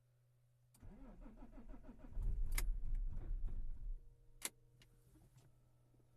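Alfa Romeo 159 2.4 JTDm five-cylinder turbodiesel being cold-started at −8 °C: the starter cranks for over a second, then the engine catches and runs loud for about two seconds before dropping away. A sharp click follows.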